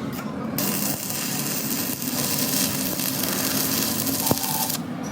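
A steady hiss that starts abruptly about half a second in and cuts off sharply near the end, with one sharp click shortly before it stops, over a low background hum.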